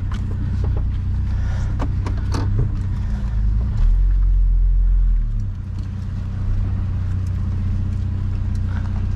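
Vehicle engine running at low speed while backing up, with a louder, deeper surge from about four to five and a half seconds in, and a few short clicks and knocks.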